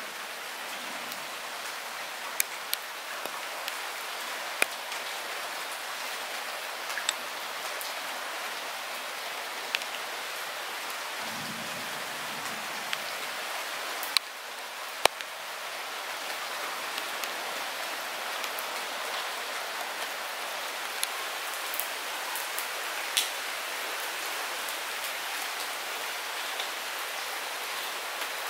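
Light rain falling steadily: an even hiss of rain, with scattered sharp ticks of single drops landing close by.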